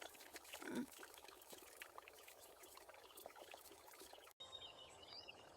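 Near silence: faint background ambience, with one short soft sound sweeping in pitch about a second in, then an abrupt cut near the end followed by faint high bird chirps.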